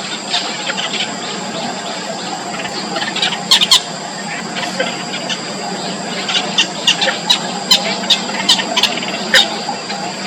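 Cinnamon bittern chicks in the nest giving short, squeaky begging calls in quick runs, a burst about three and a half seconds in and a longer run in the second half, over a steady hum and a faint high whine.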